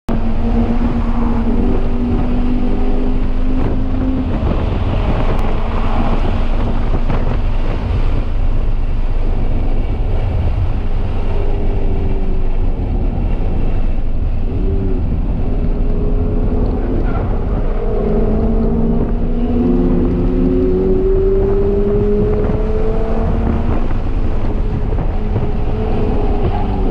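2022 Toyota GR86's 2.4-litre flat-four engine pulling hard at track speed, around 60 to 70 mph, its note climbing in pitch several times. Heavy wind and road rumble run under it.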